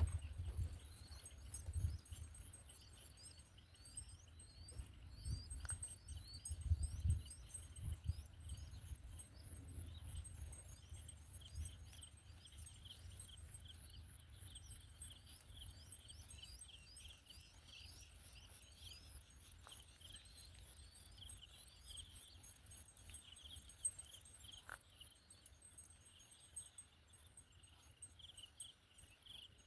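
A long run of short, high, rising chirps, about two a second, thinning out after about twenty seconds. Low rumbling sits under the first half.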